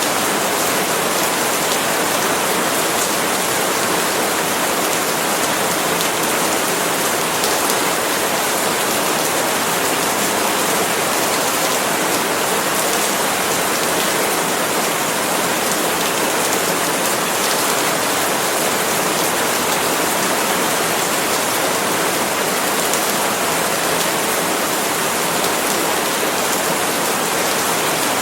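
Steady heavy rain falling on palm leaves, an even hiss with faint scattered drop patter.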